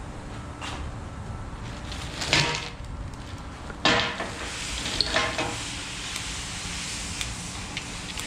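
Metal engine parts being handled during a teardown: a few sharp metallic clinks, the loudest two about a second and a half apart, over a steady hiss that grows stronger about four seconds in.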